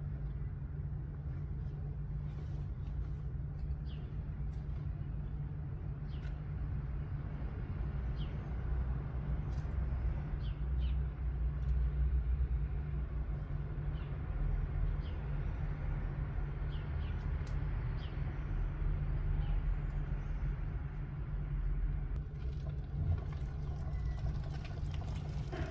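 Honda Shadow 600 chopper's V-twin engine running steadily with a deep low rumble, swelling a little about a third of the way in.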